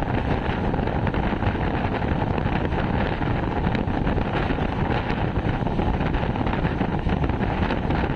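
Steady wind buffeting the microphone over the running rumble of a moving passenger train, heard from an open coach window.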